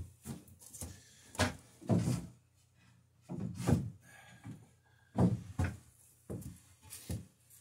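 Repeated short scraping strokes of a hand beading tool cut along the edge of a wooden boat rail, forming a small decorative bead; about a dozen uneven strokes.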